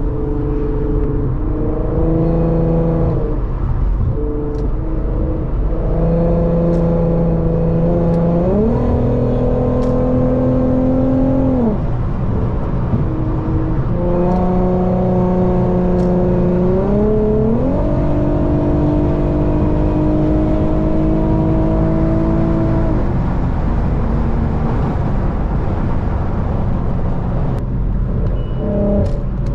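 Car engine under way on the highway, pulling harder twice: its note climbs and holds higher for several seconds each time, then eases back down.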